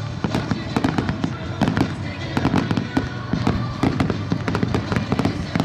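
Fireworks barrage: a rapid, dense run of bangs and cracks, several a second, over a continuous low rumble.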